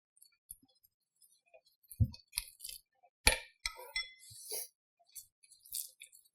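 Kitchen utensils knocking and clinking against a mixing bowl while sticky dumpling dough is stirred, a scattering of separate knocks and clinks, the sharpest a little after three seconds, one ringing briefly.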